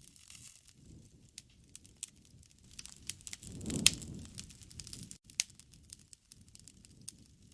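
Wood fire crackling with many scattered sharp pops, and a low rush of flame that swells for about a second near the middle, with one loud pop at its peak.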